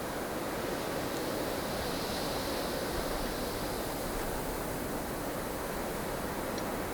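Steady roar of a blustery snowstorm: strong wind blowing without letup, with a faint high whistle swelling briefly about two seconds in.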